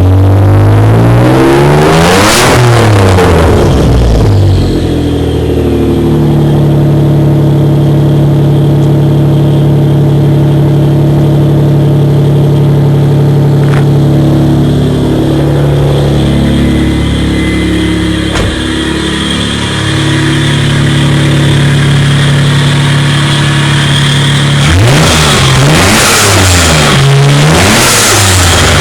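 1995 Dodge Stealth R/T Twin Turbo's 3.0-litre twin-turbo V6 breathing through a Tanabe aftermarket exhaust shortly after a cold start. One rev climbs and falls back in the first few seconds, then the engine idles steadily, and near the end it is blipped twice.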